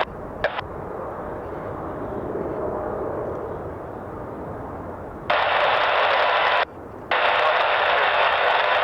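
Jet aircraft engine noise swells and eases for about five seconds. Then loud air-band scanner static cuts in abruptly: an open radio carrier hissing with no voice. It drops out briefly and comes back.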